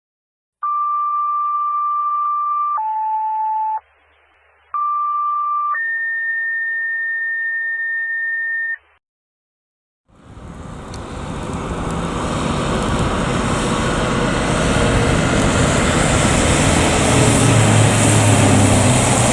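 Fire dispatch paging tones over a radio: a held tone stepping down to a lower one, a short gap, then the first tone again stepping up to a higher held tone. After a moment of silence, the noise of an approaching vehicle builds steadily, with a low engine hum joining near the end.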